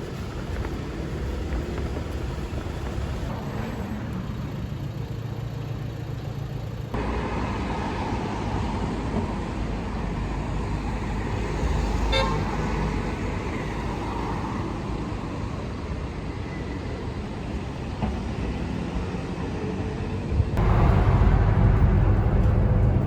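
Steady road vehicle and traffic noise, with a brief horn toot about halfway through; the sound changes abruptly several times.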